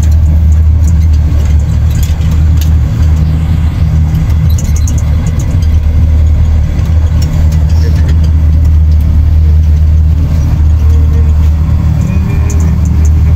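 Steady, loud low rumble of the Sky Capsule, a small elevated rail car, running along its track.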